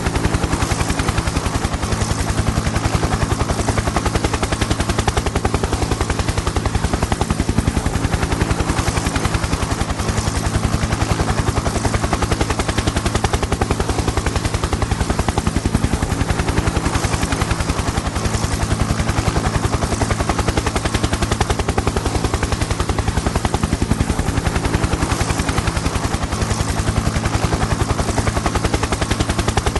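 Helicopter in flight: a rapid, steady chop of the rotor blades over a constant engine drone.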